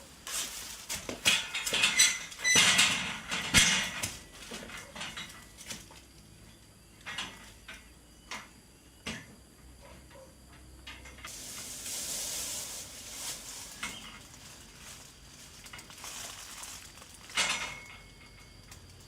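Hard objects being handled: a run of clattering knocks and clinks, densest in the first few seconds, a soft hiss in the middle, and another clatter near the end.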